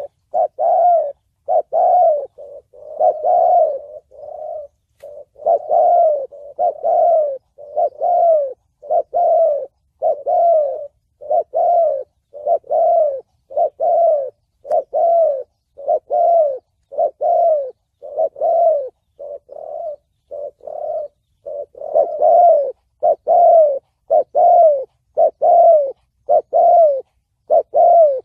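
Spotted dove cooing in the 'thổ bầu' voice style, a long steady series of low coos at about one a second, each note rising and then falling in pitch.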